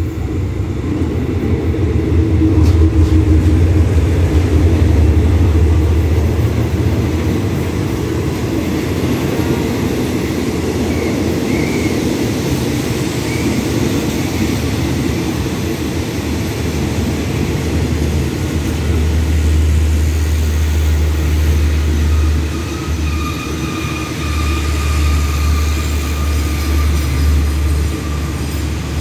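Hitachi diesel-electric locomotive 4521 hauling an express train into the station. A steady low rumble is loudest over the first few seconds as the locomotive comes by, then the passenger coaches keep rolling past along the platform.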